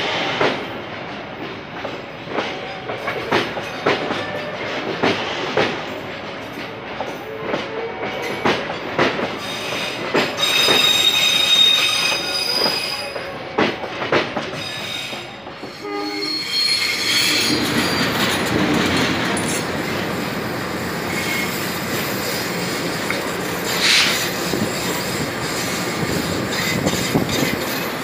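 Railway carriages rolling past close by, steel wheels clacking over the rail joints with a high wheel squeal partway through. About sixteen seconds in, the sound changes to a steadier rolling rumble of a second train's coaches passing.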